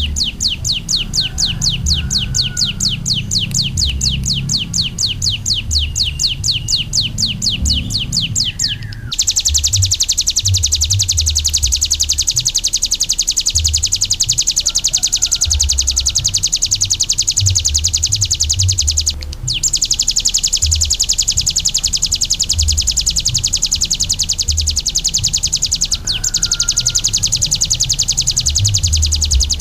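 Recorded song of a kapas tembak: a long, harsh rapid-fire trill of sharp, evenly repeated downward notes. About nine seconds in it turns into a faster, denser high trill that breaks off briefly twice.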